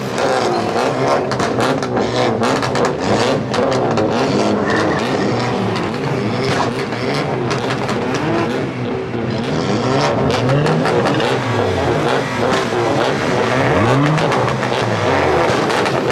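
Muscle car engines revving hard, their pitch rising and falling over and over, with tire squeal from a car doing donuts and many short sharp cracks.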